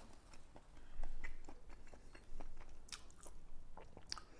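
A person chewing and eating food close to the microphone: irregular soft mouth noises and small clicks, a little louder about a second in and again past the two-second mark.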